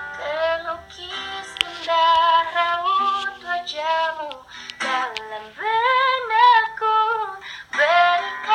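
A female voice singing a melodic song with vibrato on held notes, over instrumental accompaniment.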